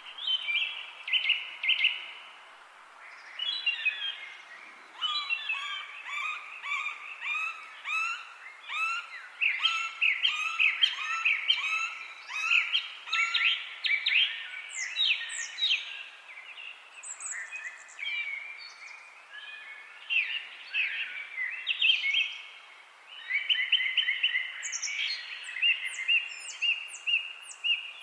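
Several songbirds chirping and singing, overlapping quick repeated notes and short rising and falling whistles, some very high-pitched, over a faint steady background hiss.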